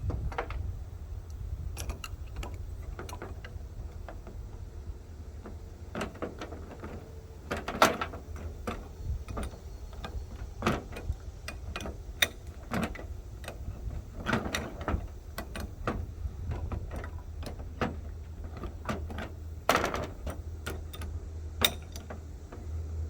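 Irregular clicks and knocks of hand tools on a pressure washer bypass fitting as it is tightened, over a steady low hum.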